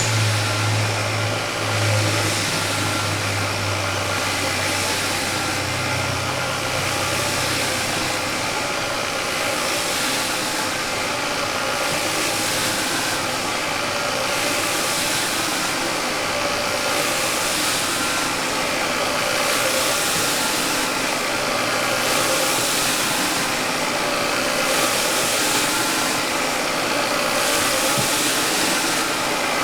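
Engine-driven rug-cleaning equipment running steadily while a rug is rinsed, with a hiss that swells and fades about every second and a half. A low hum sounds for the first several seconds, then drops away.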